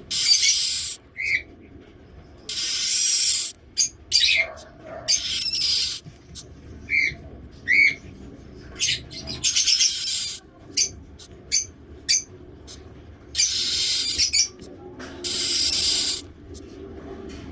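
One-week-old cockatiel chick calling over and over with raspy, hiss-like calls, each half a second to a second long, with short high peeps between them.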